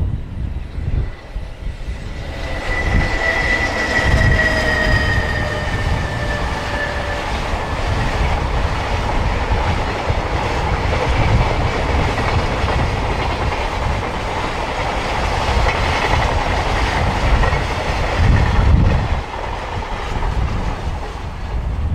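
Freight train passing close by at speed, its wheels clattering over the rail joints in a steady rush of noise, with a high whine that falls slightly in pitch over the first few seconds. Wind rumbles on the microphone.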